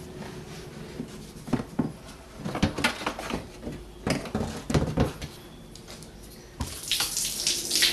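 Plastic knocks and clatter as a BMW 3 Series screen wash tank is worked loose and pulled free. Near the end comes a rush of splashing water, which sounds like washer fluid spilling out of the tank.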